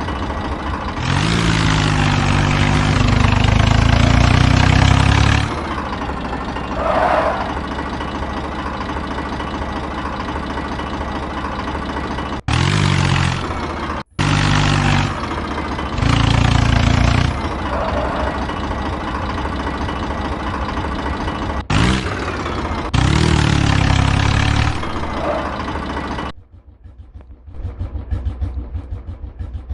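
Modified tractor's engine idling and being revved hard in repeated bursts, the longest about four seconds, each rising in pitch and falling back to idle. Near the end the engine sound drops away sharply.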